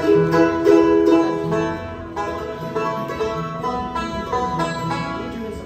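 Bluegrass band playing a tune, with the banjo picking rapid notes in front.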